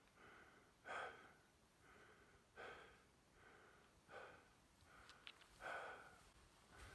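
Faint heavy breathing, four breaths about a second and a half apart, as after a hard ski run.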